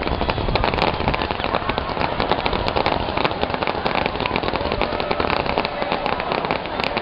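Fireworks crackling: a dense, irregular run of many small rapid pops.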